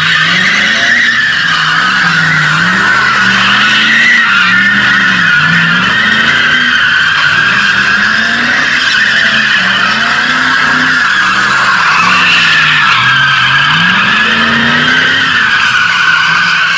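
Tires squealing continuously as a vehicle drifts, with the engine's revs rising and falling repeatedly underneath.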